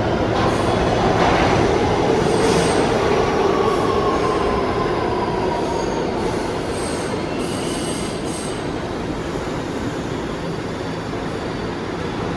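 New York City subway train moving along the platform of an underground station: a steady roar of steel wheels on rail with wheel squeal, and a tone that slowly falls in pitch through the middle, easing off a little toward the end.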